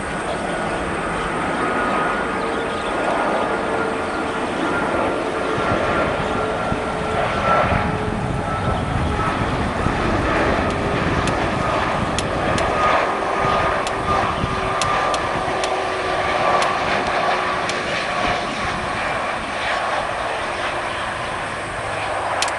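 Jet engines of an Airbus A330-343X running with a steady roar and whining fan tones that slowly sink in pitch. Scattered sharp clicks in the second half.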